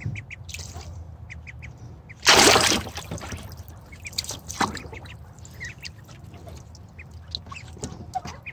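Ducklings peeping in short repeated calls while paddling in bath water, with one loud splash about two seconds in.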